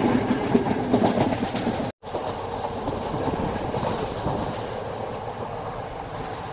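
Sri Lanka Railways passenger train running fast, heard from inside the carriage: loud, steady noise of the wheels on the rails. The sound cuts out for an instant about two seconds in, then carries on a little quieter.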